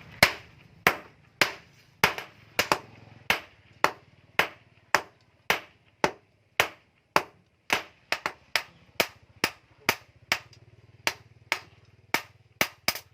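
Hammer blows on hot bearing steel at the anvil, struck at about two a second with a few quick double taps, over a faint low hum.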